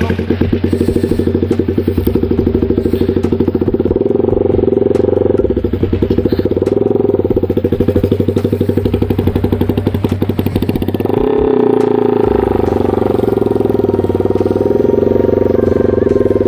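Yamaha R15M V4's single-cylinder engine running through a loud aftermarket exhaust with an even, steady beat. It picks up a little about eleven seconds in.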